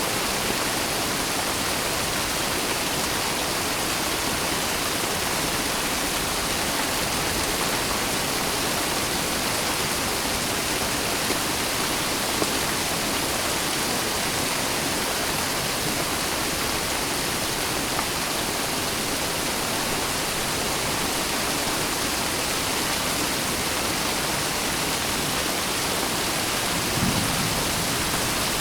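Steady, dense rainfall: an even hiss of rain with no distinct drops standing out, and a faint tap or two.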